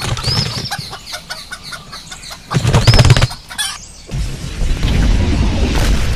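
A wild chicken flapping its wings hard with short squawks, in a loud flurry about three seconds in. From about four seconds in, a steady low rumbling noise takes over.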